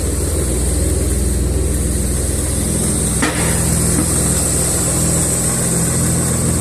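The newly swapped-in engine of a Jaguar XJ idling steadily on its first run, running well. A brief knock sounds about three seconds in.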